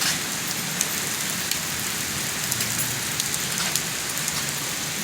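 Steady rain falling, an even hiss with single drops striking close by as sharp ticks scattered through it.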